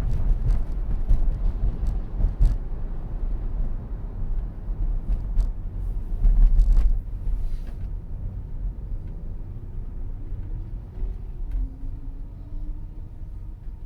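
Road and tyre rumble inside the cabin of a Tesla driving on Full Self-Driving, with a few light ticks and knocks, louder for about the first seven seconds and then easing off. Faint gliding whines come in during the second half.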